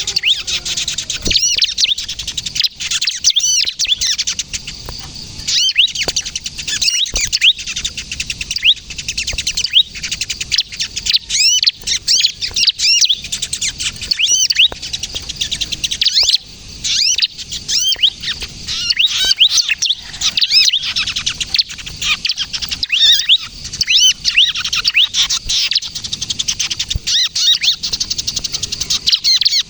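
Bar-winged prinia (ciblek kristal) calling without pause in quick series of high, sharp chirps and trills. This is the 'kejepit' call that is played to lure and prompt other prinias.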